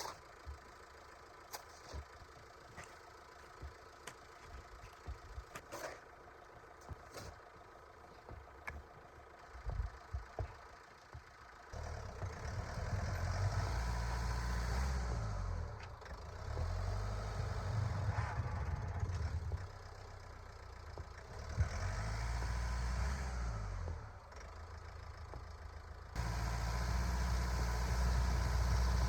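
A van's engine running with a low rumble in several stretches that start and stop abruptly, after a quieter opening with scattered sharp clicks.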